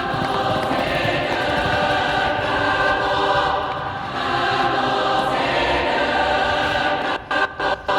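Music: a choir singing sustained chords, chopped into short stuttering dropouts near the end.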